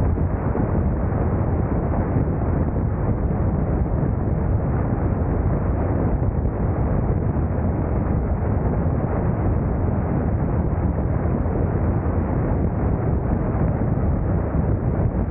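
Motorcycle riding at a steady speed: a constant low rumble of engine and wind buffeting the camera microphone.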